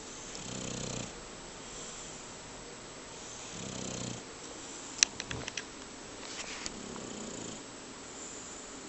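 Bearcoat Shar-Pei dog snoring in its sleep: low, slow snores about every three seconds. About halfway through there is a sharp click followed by a quick run of smaller clicks.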